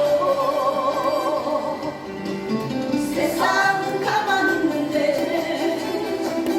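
Singing over instrumental accompaniment, with long held notes that waver in pitch.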